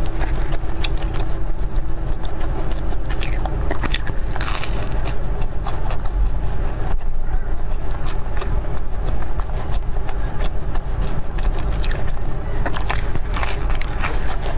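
Close-miked biting and chewing of a flaky golden pastry, with scattered crisp crackles over a steady low rumble.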